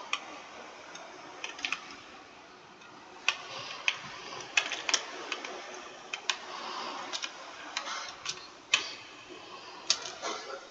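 Typing on a computer keyboard: irregular keystroke clicks, some single and some in quick runs of two or three, with short pauses between.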